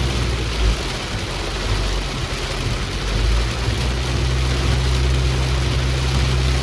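A vehicle driving in heavy rain: a steady low engine hum under a continuous hiss of rain and water.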